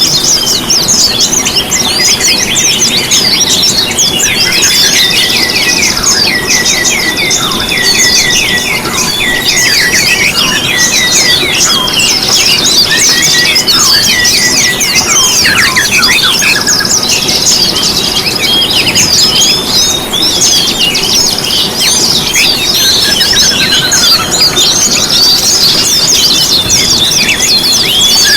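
A dense chorus of small songbirds singing together: many overlapping rapid chirps, trills and quick rising and falling whistles, over a steady low background noise.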